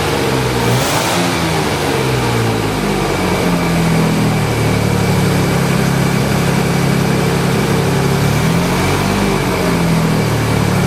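Freshly rebuilt Jaguar E-Type 5.3-litre V12 running on its first start. The revs rise and fall over the first few seconds, then settle to a steadier speed with a brief dip near the end.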